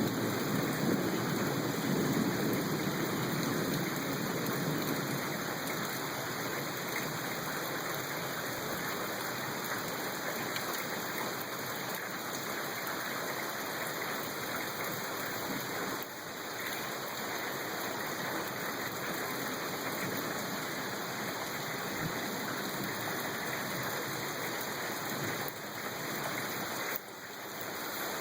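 Steady rain falling, with a low rumble of thunder fading away over the first few seconds.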